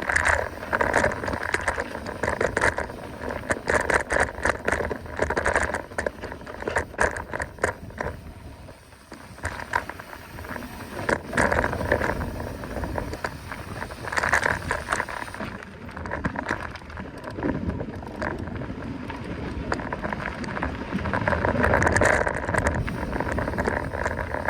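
Mountain bike ridden over a rough dirt trail: the bike rattles and clatters with many short clicks and knocks over uneven tyre noise, easing briefly around the middle.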